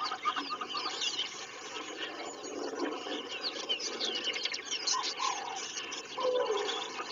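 Dense chorus of many birds chirping and twittering together, with a few lower, longer calls mixed in around the middle and near the end.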